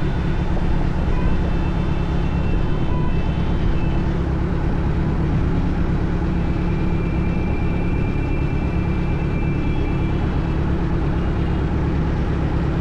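Motorcycle being ridden at a steady pace: an even, continuous rumble with no marked rise or fall in pitch.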